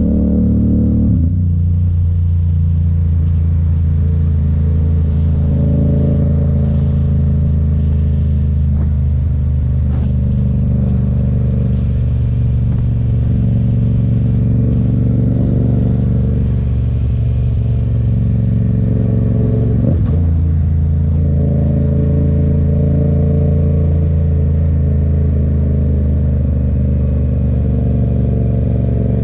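Yamaha FZ-07's parallel-twin engine running steadily while riding, its note holding at an even pitch, with brief shifts in pitch about a second in and again around two-thirds of the way through.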